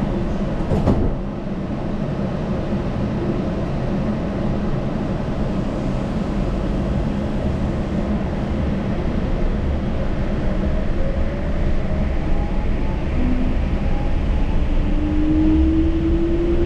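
Yurikamome Line automated rubber-tyred train running along its concrete guideway: a steady low rumble, with a short click about a second in. From about ten seconds a whine rises slowly in pitch and grows stronger toward the end, as the drive motors speed up.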